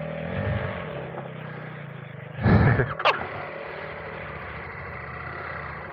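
Adventure motorcycle engine running steadily at low revs on a dirt trail, with one brief loud burst of sound about two and a half seconds in.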